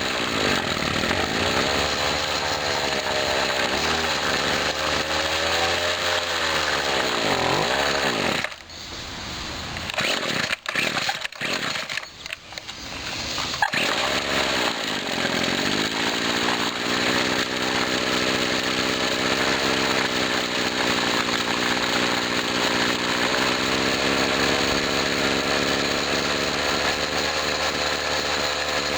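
A 1997 Husqvarna 24cc two-stroke string trimmer engine revving up and down. Its sound then drops away for about five seconds with a few clicks, and it comes back to run steadily at high speed. The carburetor has a freshly rebuilt Walbro diaphragm and now accelerates without bogging, but its idle and tune still need adjusting.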